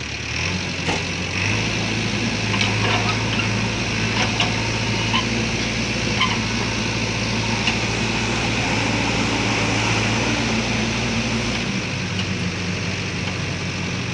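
Heavy diesel truck engine running. Its pitch steps up about a second and a half in and holds steady under load, then drops back toward idle near the end, with a few faint clicks and knocks over it.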